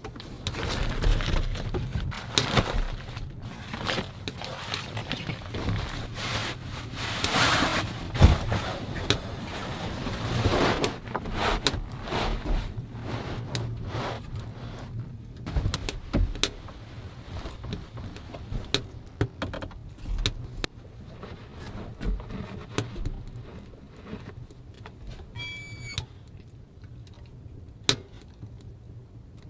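Irregular clinks, knocks and rustling of objects being handled, busiest in the first half and sparser later, with a brief high squeak about three quarters of the way through.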